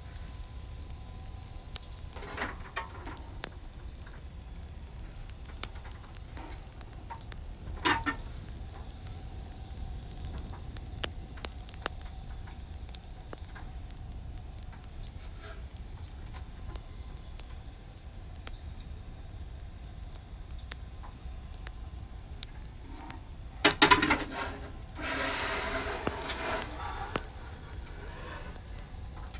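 Wood fire crackling, with scattered small pops and a few louder ones. The loudest pop comes about 24 seconds in, followed by a couple of seconds of denser hissing crackle.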